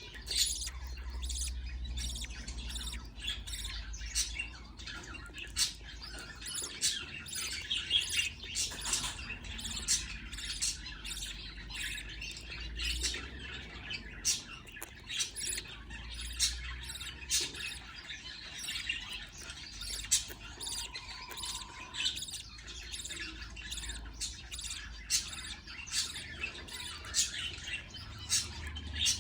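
Budgerigars chirping: a rapid, continuous run of short, high chirps and chatter, over a low steady hum.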